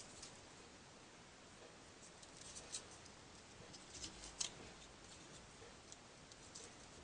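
Folded paper modules being pushed into a 3D origami model: faint paper rustling with a few soft, crisp clicks, the clearest about two and a half and four and a half seconds in.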